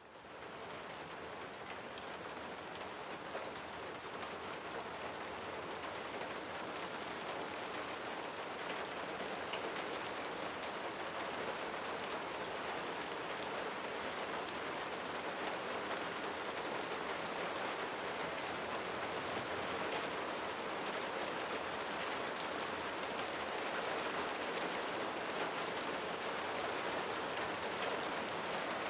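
Steady rain falling on leaves, a dense hiss of drops with scattered sharper drop ticks. It fades in from silence at the start and slowly grows louder.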